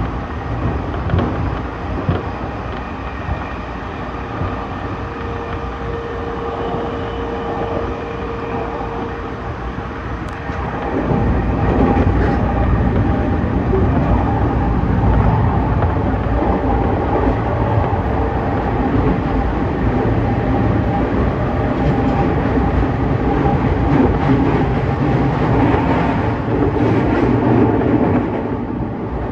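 Running noise of an E231-series electric commuter train, heard from inside the car at speed: a steady rumble of wheels on rail. About ten seconds in it grows louder and stays loud, easing off again near the end.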